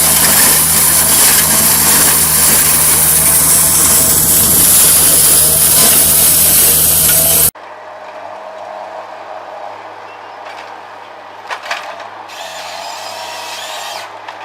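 Heavy logging machinery running loud and steady, then cut off abruptly about halfway through. After that comes a quieter machine sound with a few sharp knocks.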